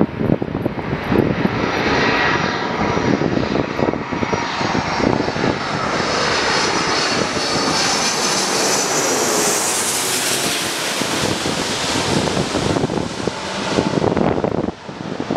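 Jet airliner engines passing close by: a rushing roar with a gliding whine that builds to its highest, loudest point about ten seconds in, then eases off. Wind buffets the microphone throughout.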